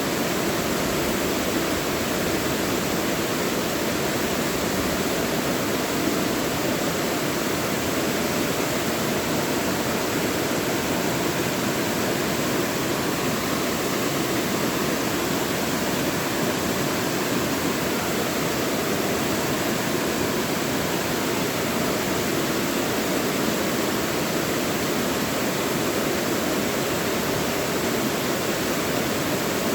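Mountain stream rushing over rocks in a steady, even wash of water noise.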